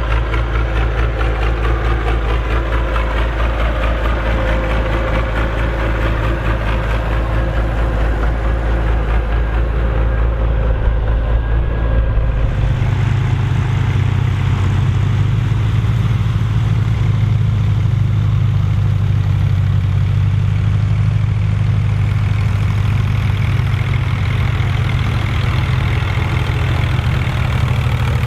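Massey Ferguson 2680 tractor's six-cylinder diesel engine running steadily. About twelve and a half seconds in, its deep low note gives way to a somewhat higher hum.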